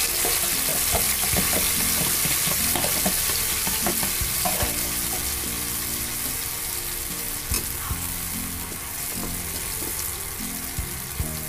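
Wet blended chili paste sizzling hard in hot oil in a frying pan, just after it has been poured in. The sizzle eases slightly over the seconds, and a metal spatula knocks the pan twice in the second half as it stirs.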